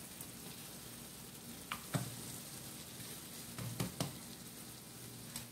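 Steady low sizzle of chili paste with dried shrimp frying in a wok, with a few soft knocks in the pan about two seconds in and again near four seconds as pineapple rings are laid in and moved with the spatula.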